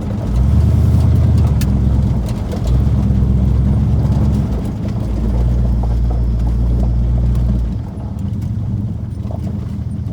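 Truck engine pulling hard under heavy throttle, heard from inside the cab: three loud surges with short dips between, then it drops back to a quieter run about eight seconds in.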